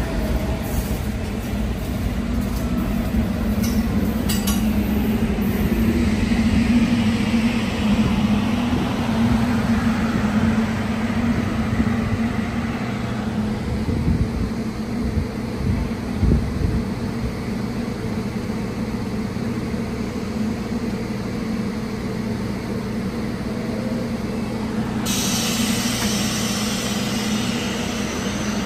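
A Staten Island Railway train standing at the platform with a steady low hum from its onboard equipment. A few light knocks come partway through, and a hiss starts near the end.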